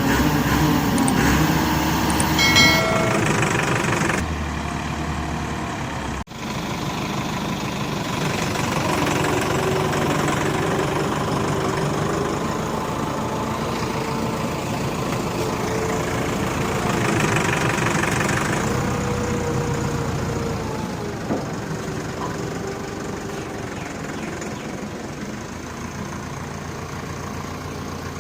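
Massey Ferguson 385 tractor's diesel engine running with its trolley stuck in mud, the engine note swelling and easing as it works to pull free. A brief cut-out about six seconds in.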